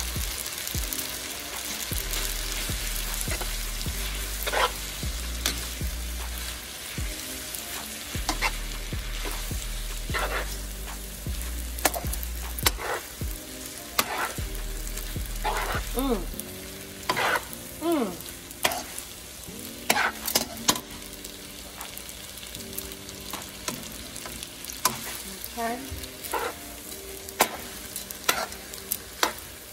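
Garlic noodles frying in teriyaki sauce in a pan, sizzling steadily while a utensil stirs and tosses them, with repeated clicks and scrapes against the pan.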